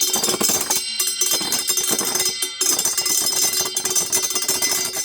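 Two 3D-printed Beyblade spinning tops battling in a stadium: a dense, rapid clatter of collisions over steady ringing tones, with brief lulls about one and two and a half seconds in. The loudness fits the speaker's remark that it is "so loud".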